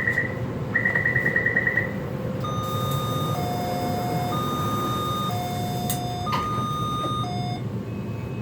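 Rapid electronic beeping for the first two seconds, then an electronic tone alternating between a higher and a lower note, each held about a second, over the steady rumble of a metro train car.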